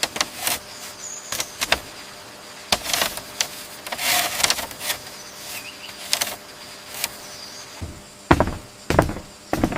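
Bamboo poles knocking and clattering as they are handled and fitted into a frame. Irregular sharp knocks, a short scraping rustle about four seconds in, and several heavier thumps near the end.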